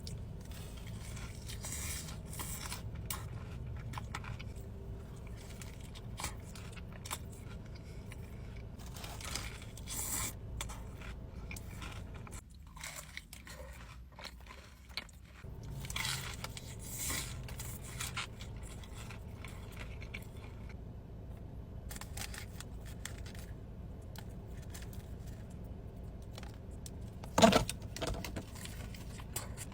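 Close-miked eating: irregular crunching and chewing over a steady low hum, with one loud, sharp crunch near the end.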